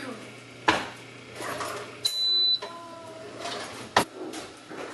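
A steady low hum cuts off about two seconds in and a single high electronic beep sounds for about half a second, the beep of a kitchen appliance. There is a sharp click near the start and another near the end.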